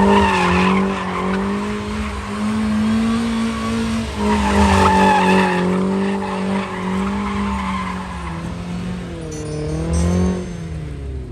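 Car engine held at high revs while the rear tyres squeal against the pavement, the screech loudest near the start and again about four to six seconds in; the engine note dips briefly about four seconds in and again near the end.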